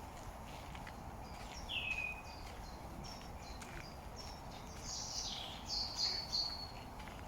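Wild songbirds calling and singing: many short high chirps, a louder down-slurred whistle about two seconds in, and a cluster of loud chirps between about five and six and a half seconds, over a steady background hiss.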